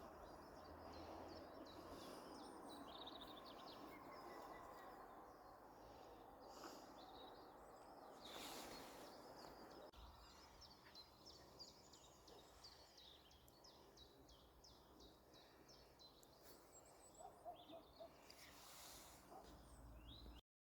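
Faint birdsong from several small birds: many short chirps and trills. Under them is a soft steady rushing noise that eases about halfway through.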